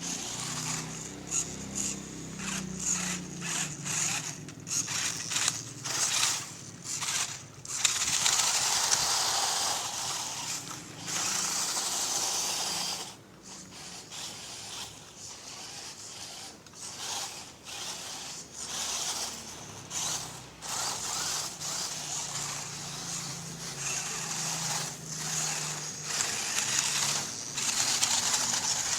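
Small RC rock crawler's tuned stock electric motor and gears whirring in stop-start bursts, with scraping and crunching as it crawls over rough ground; the longest run comes about a third of the way in.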